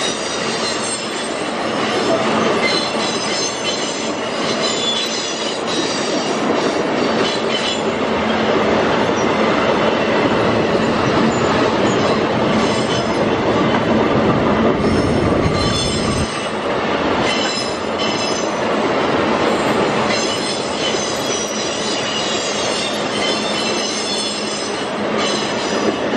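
Loaded freight train's open-top ore wagons rolling past on a curve: a steady rumble of wheels on rail, with high wheel squeal that comes and goes.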